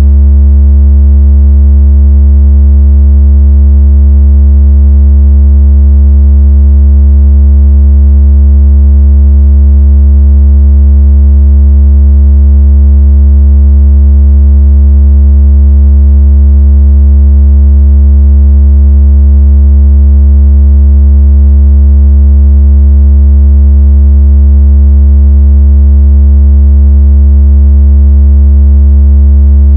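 Loud, deep, steady synthesized tone with faint overtones and no change in pitch or level: a water-ejecting speaker tone, played to make a phone speaker vibrate and shake water out of it.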